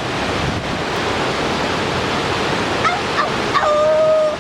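Floodwater rushing steadily. From about three seconds in, a run of short honking calls, then one longer held honk near the end.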